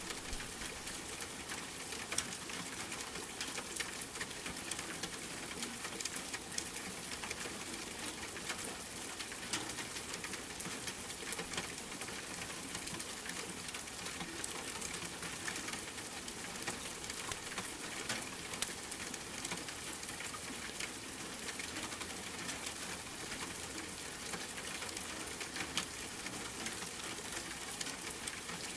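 Steady rain hissing, mixed with a fireplace's wood fire crackling and popping in frequent sharp clicks.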